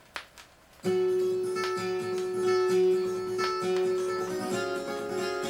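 Two short clicks, then acoustic guitar music starts abruptly about a second in: a strummed acoustic guitar figure over a held note.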